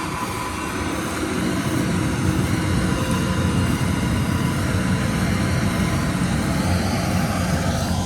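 A large engine of farm machinery running steadily at the rice harvest, with a whine that rises near the end.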